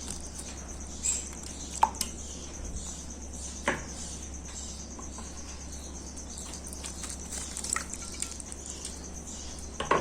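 A few small water drips and light splashes in a small fish bowl as fish are let into the water, spaced a second or more apart, over a steady low hum.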